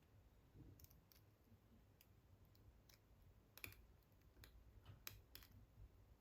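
Faint, scattered ticks and clicks of a hook pick working the pin tumblers in the keyway of a GEGE AP2000 padlock under tension, about eight in all, the sharpest about three and a half seconds in.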